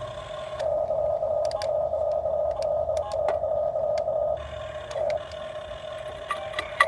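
Excavator's drive whining at one steady pitch in spells, stopping about two-thirds of the way in and briefly starting again, with scattered clicks and a sharp click near the end.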